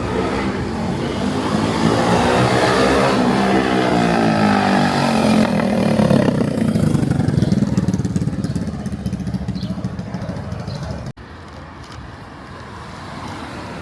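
A vehicle engine drives past, loud at first, then falling in pitch and fading as it goes away. The sound breaks off abruptly about eleven seconds in, leaving quieter street noise.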